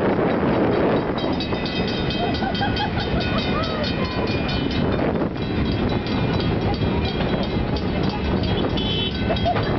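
Passenger train rolling along the track with steady wheel and rail rumble, while a railroad grade-crossing warning bell rings in rapid, even strokes, strongest in the first half.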